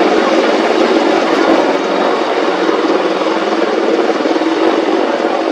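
AH-64E Apache attack helicopter flying, a loud steady rotor and turbine sound with a fast rotor chop.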